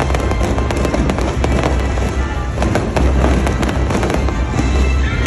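Aerial fireworks display crackling and banging in a dense, continuous string of sharp cracks over a deep rumble, with music playing underneath.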